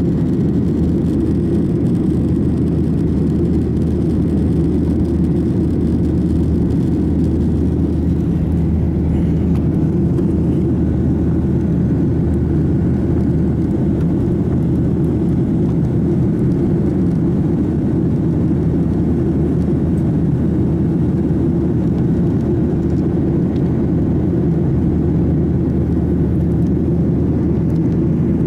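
Steady drone of a Garuda Indonesia airliner's engines and airflow heard inside the passenger cabin, deep and unchanging.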